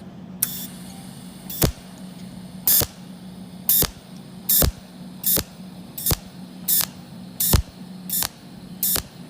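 Cold-welding machine firing pulse after pulse on thin 0.7 mm stainless steel plate, laying a bead without filler wire. Each pulse is a short, sharp zap, a little more than one a second and evenly paced, over a steady low hum from the machine.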